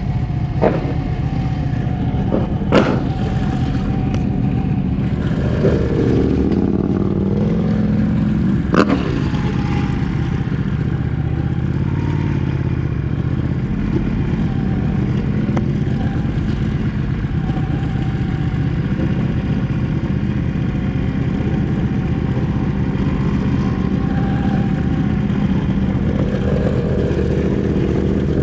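Ducati 1199S Panigale's V-twin engine running under way, its pitch dropping and then climbing again around six to eight seconds in. A few sharp clicks cut through, the loudest about three and nine seconds in.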